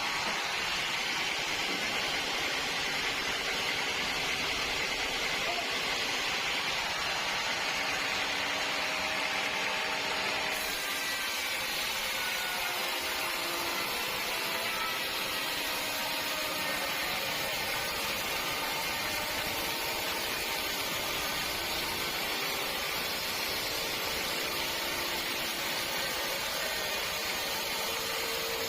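Sawmill machinery running steadily, with a shift in its hiss about ten seconds in.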